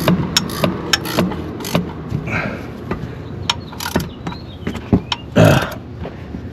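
Hand ratchet wrench clicking in quick strokes while bolts are tightened, thinning to scattered clicks after about two seconds, with one louder short burst of noise near the end.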